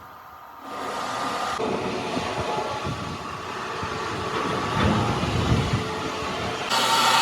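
Heavy machinery rumbling, starting abruptly about a second in, with the sound changing suddenly near the end.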